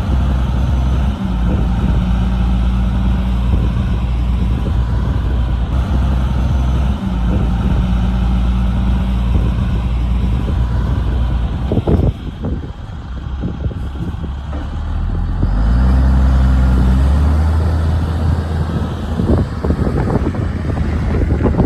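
Heavy diesel engine of earthmoving machinery running steadily, with a sharp clank about twelve seconds in. The engine then drops off briefly and revs up again under load.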